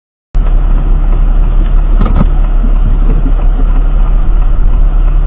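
Loud, steady motor-vehicle engine and road noise picked up by a dash camera's microphone, cutting in abruptly just after the start, with a couple of faint knocks about two seconds in.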